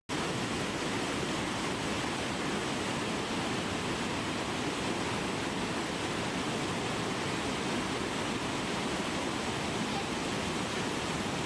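Naena Falls, a large waterfall, giving a steady, unbroken rush of falling water.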